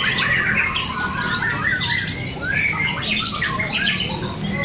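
Many caged white-rumped shamas (murai batu) singing at once in contest: a dense, overlapping tangle of quick chirps, trills and short whistled phrases.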